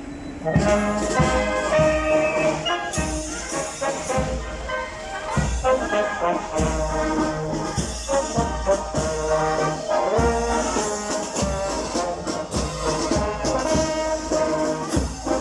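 A brass band strikes up about half a second in, horns playing a tune over a steady beat of drums.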